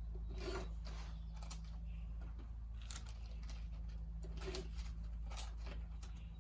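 Packaging of new engine parts being opened: a string of short crinkling, tearing rustles and snips, irregularly spaced, over a steady low hum.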